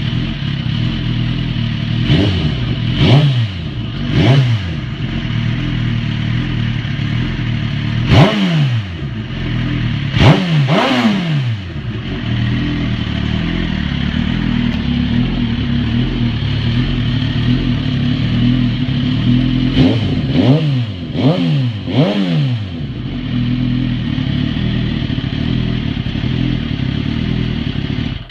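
2007 Suzuki GSX-R1000's inline-four engine through a Two Brothers Racing aftermarket exhaust, idling steadily and blipped on the throttle in three sets of quick revs. Each rev rises sharply and falls back to idle.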